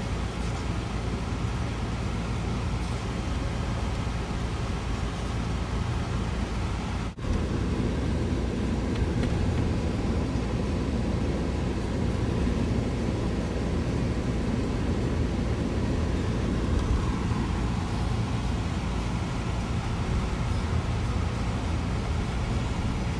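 Steady engine and road noise of a four-wheel-drive vehicle being driven, a low continuous rumble, with a brief break about seven seconds in.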